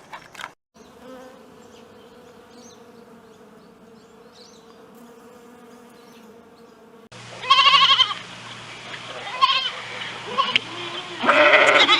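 An insect buzzing steadily for about six seconds, then an abrupt cut to a goat bleating several times in loud, quavering calls, the longest near the end.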